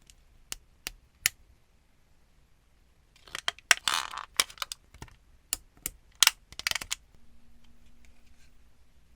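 Hard plastic clicks and snaps of Gunpla model kit parts being handled and fitted together: three single clicks, a quick cluster with some rustling, then a few more clicks. A faint steady hum follows near the end.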